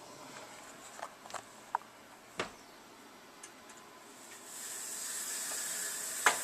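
A few light clicks and knocks, then a steady high hiss that sets in about four seconds in, with one sharp click near the end.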